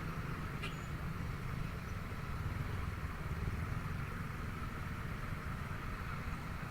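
Honda Vario 125 scooter's single-cylinder engine running steadily while riding, with a constant low road-and-wind rumble.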